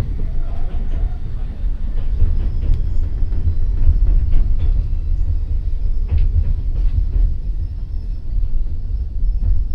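Enoden 1000 series train with nose-suspended traction motors running, heard from inside the car: a heavy, steady low rumble from the drive and wheels, broken by frequent short clicks and knocks from the track.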